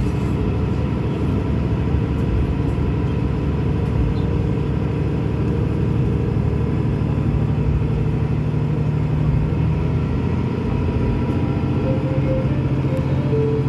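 Diesel railcar running along the line, heard from inside the car: a steady engine rumble with running noise. A deeper engine hum strengthens about seven seconds in, and a few short tones sound near the end.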